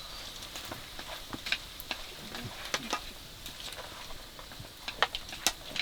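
Food sizzling in a hot pan, with a cooking utensil clicking and scraping against it at irregular moments.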